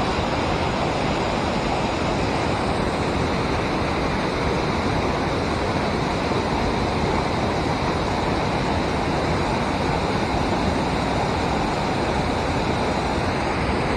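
Water rushing steadily in a river below a dam, an even noise that doesn't change.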